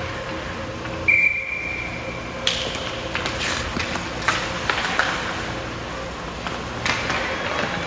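Hockey referee's whistle blown once, one steady high note lasting about a second and a half, followed by scattered sharp clacks and knocks of play over a steady arena hum.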